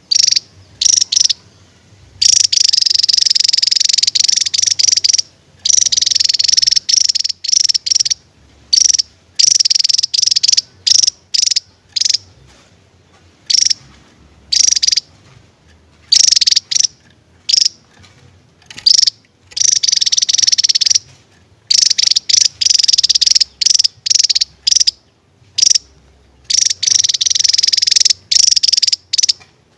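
Javan tesia singing loud, high-pitched drilling trills, some held for one to three seconds, broken up by quick sharp notes and short pauses.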